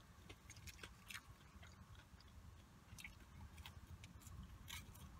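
A person quietly chewing fast food, with a few faint, scattered crunches and mouth clicks.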